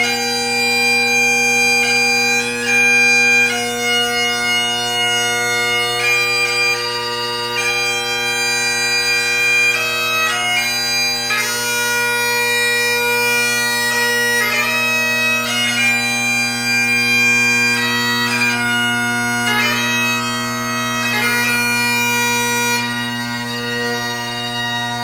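Great Highland bagpipe played solo: the drones hold a steady low chord while the chanter plays a quick melody, notes changing every fraction of a second.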